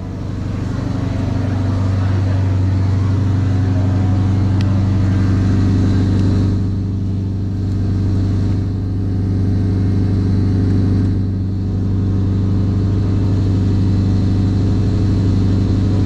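Classic car engine running with a steady, deep drone, easing off slightly a couple of times partway through.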